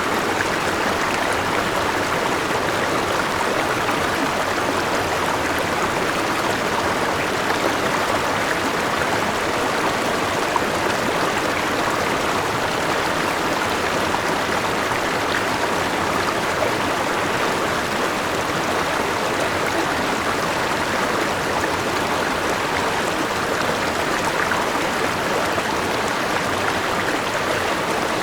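A forest river running over rocks with a small waterfall: a steady, even rush of flowing water.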